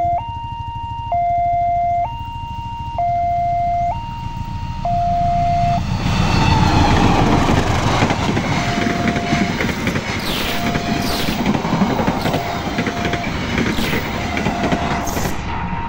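Level-crossing warning alarm sounding a two-tone signal that alternates about once a second. About six seconds in, a train runs through the crossing, and its rumble and wheel clatter drown the alarm, which keeps sounding underneath.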